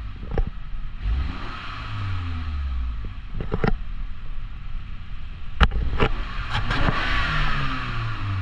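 2018 BMW X2's 2.0-litre turbocharged four-cylinder engine being revved, its pitch falling back after each rev. A few sharp clicks are heard over it.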